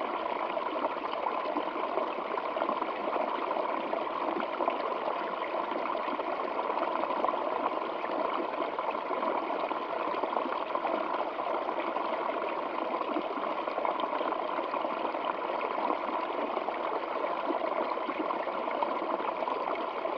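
Running water, a steady unbroken flow that stays even in level throughout.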